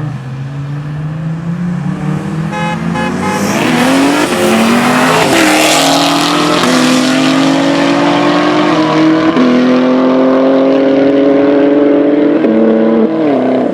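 Car engine accelerating hard, loud. Its note climbs steadily and drops back at each upshift, several times through the gears, growing louder about four seconds in as the car comes closer.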